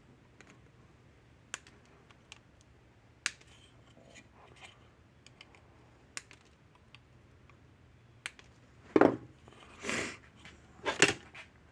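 Scattered light clicks and taps of small tools and parts handled on a workbench, with a few louder knocks and a short scrape about three-quarters of the way through.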